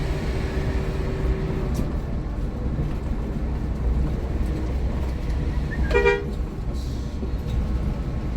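Steady drone of the Hino R260 coach's engine and road noise heard inside the cabin, with one short horn toot about six seconds in.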